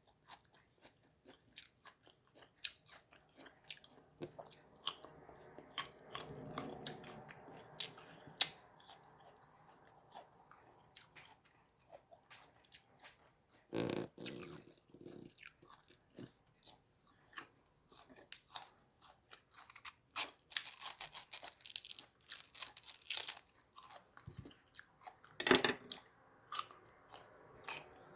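A person biting and chewing crisp, unripe mango close to the microphone: a steady run of small crunches, with louder bites about halfway through and again near the end.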